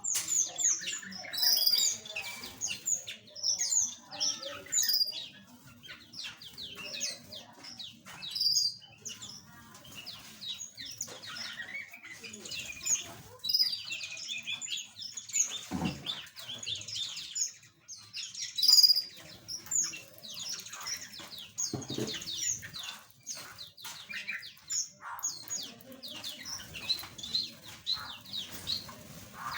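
A flock of small aviary birds chirping and twittering, many short, high calls overlapping, with a couple of soft low thumps.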